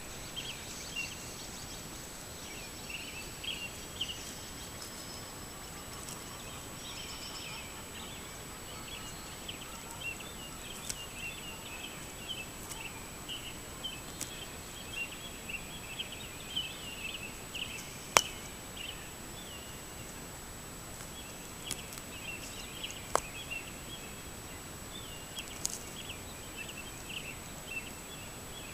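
Birds chirping almost without pause, many short high notes over a steady hiss, with a thin steady high-pitched tone throughout. A few sharp clicks, the loudest about 18 seconds in and another about 23 seconds in.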